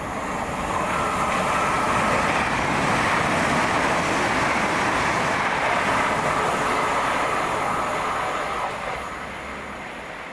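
A train passing at speed. Its noise builds over about two seconds, holds steady, and dies away about nine seconds in.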